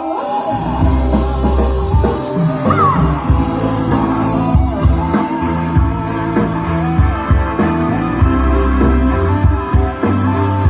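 Loud rock-style music with drums, guitar, heavy bass and some singing, played through a 15-inch active PA speaker.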